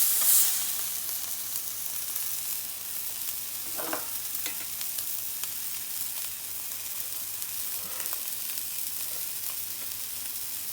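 Sliced venison loin frying in a pan: a steady sizzle that flares loudest right at the start as yakiniku sauce goes in, then settles to an even hiss.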